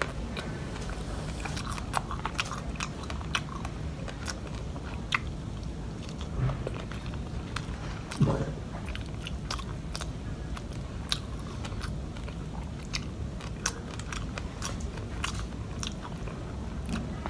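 Close-up eating sounds: chewing and crunching of crispy deep-fried catfish, with many short sharp clicks of bites and mouth noises scattered throughout over a steady low hum. One slightly louder thud comes about eight seconds in.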